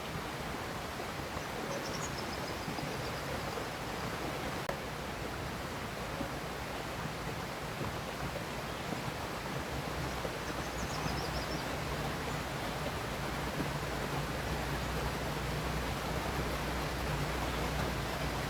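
River water flowing with a steady rushing sound, with two faint high chirps about two and eleven seconds in.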